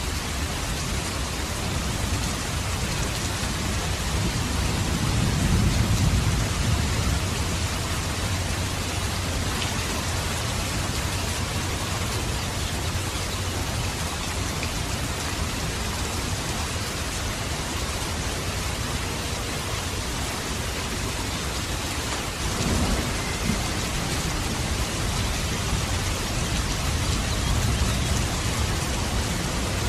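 Steady rain, a dense even hiss, with low rolls of thunder swelling about five seconds in and again in the last third.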